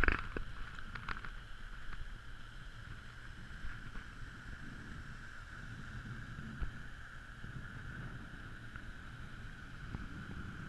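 Boat under way on open water: steady low wind rumble on the microphone with a constant high hum, and a couple of short knocks about a second in.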